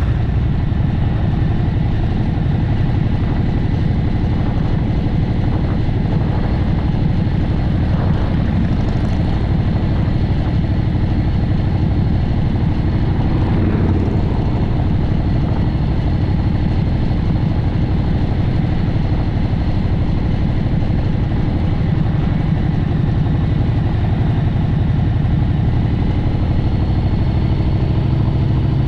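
Steady vehicle engine and road noise, a continuous low rumble with no breaks.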